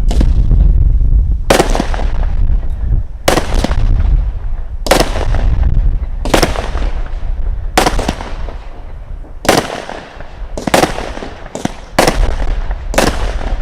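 Consumer firework cake firing aerial shots: a sharp bang about every second and a half, each trailing off, coming faster near the end, over a low rumble.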